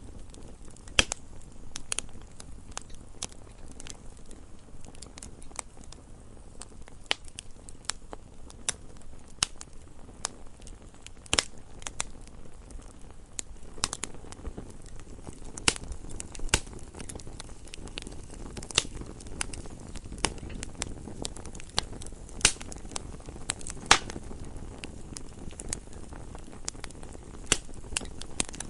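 Campfire burning, with irregular sharp crackles and pops of varying loudness over a soft low rumble of the flames.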